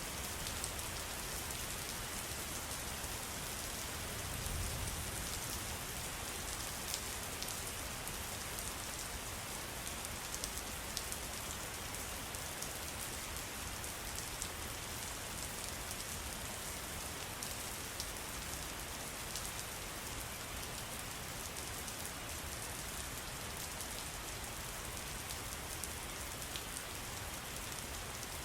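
Steady patter of falling water: an even hiss with many small, sharp drop ticks scattered throughout.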